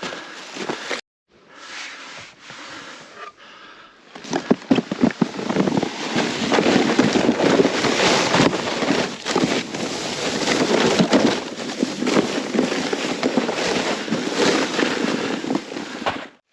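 Plastic saucer sled scraping and crackling over crusty snow. A few short runs break off abruptly, then one long slide of about twelve seconds ends suddenly.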